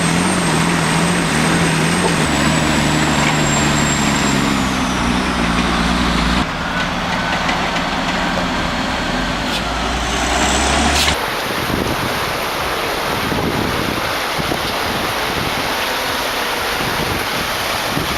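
Loaded logging truck's diesel engine labouring under load, its pitch sagging slightly, with a high turbo whistle over it. The sound changes abruptly twice, with a rising whine just before the second change. After that comes an even, rough rushing noise with no clear engine note.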